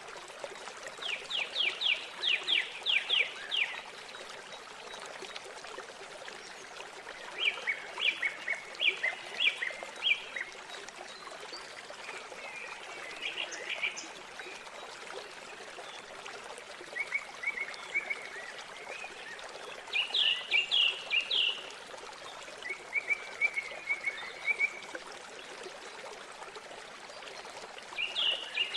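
A small songbird singing short phrases of rapid high notes every few seconds, about seven times, over a steady rush of flowing river water.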